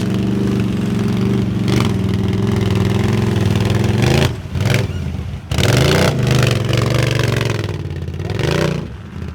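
4x4 ATV engine revving under load, the revs dropping off sharply twice, about four and five and a half seconds in, and climbing again each time, then easing off near the end.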